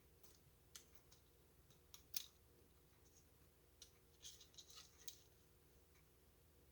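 A few short, crisp clicks and light scrapes of paper and craft supplies being handled, one sharper click about two seconds in and a quick cluster of them a couple of seconds later, over faint room tone.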